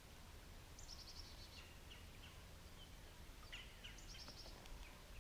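Quiet lakeside ambience with a low steady rumble and a few faint, short bird chirps and calls scattered through the middle.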